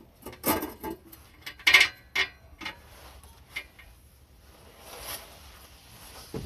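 Metal exhaust-mount hardware and tools clinking and clattering by hand: a string of sharp clinks over the first four seconds, then a softer scraping sound about five seconds in and a single knock near the end.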